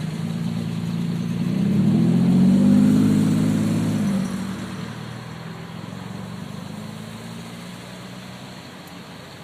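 A car engine speeding up as the car drives off past the microphone, loudest about three seconds in, then fading away. After it, another engine goes on running more quietly.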